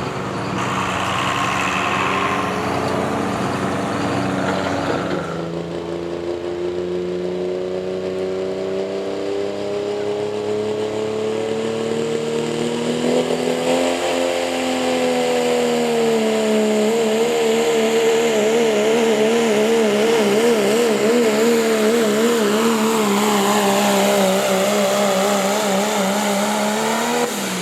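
A competition pulling vehicle's engine running hard under load during a pull. Its note climbs slowly, then wavers quickly up and down for several seconds, and drops sharply near the end as the throttle comes off.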